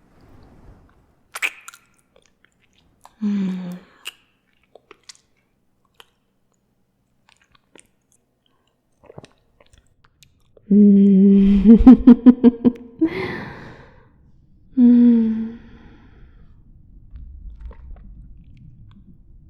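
Close-miked swallowing sounds from a woman's mouth and throat: wet mouth clicks, a short hum, then a loud pulsing gulp about eleven seconds in, followed by a breath and another short hum. A low rumble sets in near the end.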